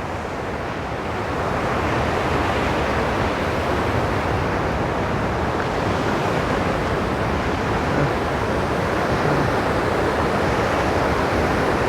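Steady rushing of falling water from a waterfall, growing a little louder about two seconds in and then holding even.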